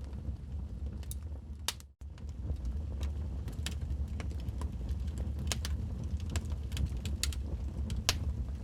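Wood fire crackling in a fireplace: irregular sharp pops and crackles from burning logs over a steady low rumble, cutting out for an instant about two seconds in.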